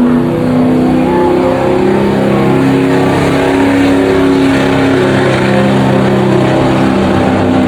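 Pickup truck engine running hard at full throttle while pulling a weighted sled in a truck pull. It is a loud, continuous engine note whose pitch shifts up and down several times.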